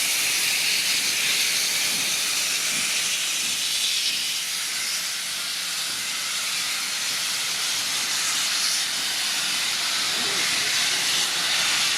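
Steam locomotive hissing steam, a steady high hiss with no exhaust beats.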